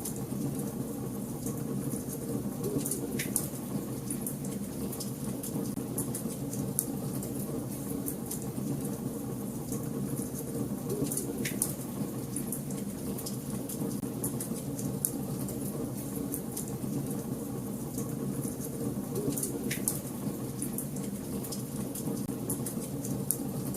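Fire in a fireplace crackling steadily over a low, even rush of flame, with frequent small snaps and three louder pops spread through.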